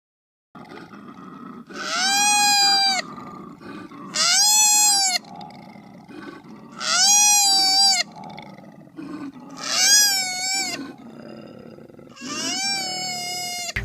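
An animal's loud calls, five in a row a couple of seconds apart. Each call is drawn out for about a second, with a pitch that rises and then falls.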